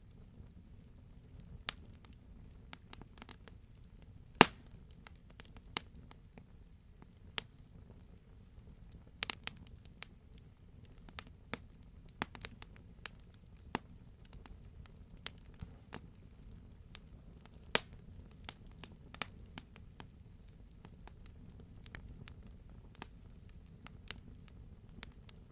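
Campfire crackling: irregular sharp pops and snaps of burning wood, a few louder, over a low steady rumble of the fire, the loudest pop about four and a half seconds in.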